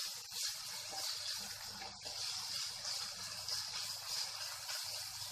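Chopped sweet corn, onion, capsicum and carrot sizzling in hot oil in a pan as they are stir-fried with a spatula: a steady frying hiss that swells a little with the stirring.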